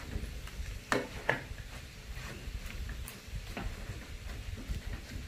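A pan cooking on a lit stove while it sits unstirred: a steady low rumble with scattered light ticks, and two sharp clicks about a second in.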